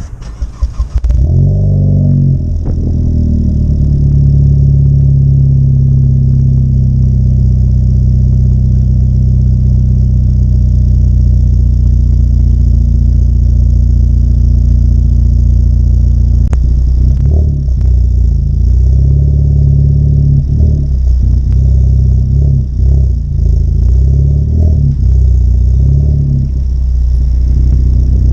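A 2014 Ford Focus ST's 2.0-litre turbocharged four-cylinder starts about a second in, through a new MBRP cat-back exhaust, heard at the rear of the car. It flares briefly as it catches, then settles into a steady idle. The note wavers a few times in the second half.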